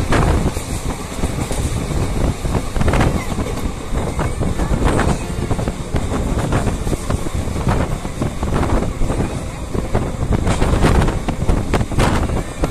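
Passenger train running along the line, heard from an open carriage window: a steady low rumble of wheels on the track, with wind gusting on the microphone now and then.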